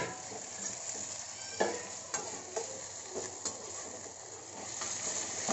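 Sliced onions and tomatoes sizzling in hot oil in a kadai while a metal spatula stirs them, with a steady hiss and several short scrapes and taps of the spatula against the pan.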